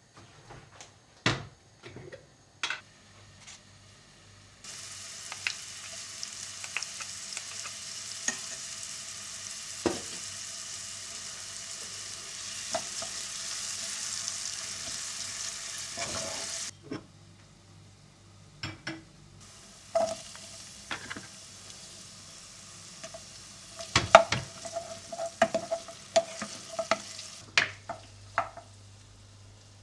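Food sizzling in a hot pan. The sizzle starts suddenly a few seconds in and cuts off about halfway, then comes back fainter. Sharp taps and clinks of a utensil against the pan and dishes are scattered throughout, thickest near the end.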